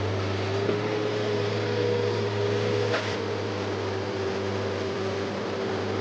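Komatsu PC130F excavator running steadily, a constant engine drone with a steady whine over it, and a single short knock about halfway through.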